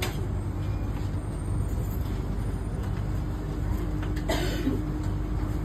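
Changi Airport Skytrain car running, a steady low rumble inside the car with a faint constant hum. A brief hiss comes about four seconds in, and a sharp click right at the end.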